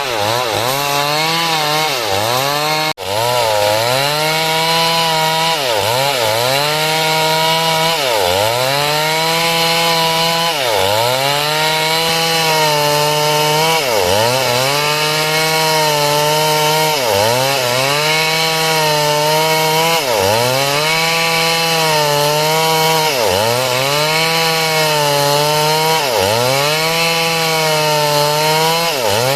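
Two-stroke chainsaw at high revs ripping timber lengthwise, its engine pitch sagging and recovering every two to three seconds as the chain loads up in the cut. The sound drops out for a moment about three seconds in.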